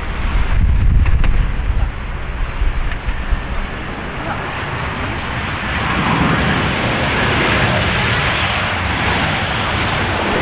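Jet engines of a Boeing 737-800 (CFM56-7B turbofans) approaching, the rushing jet noise swelling from about six seconds in and holding loud.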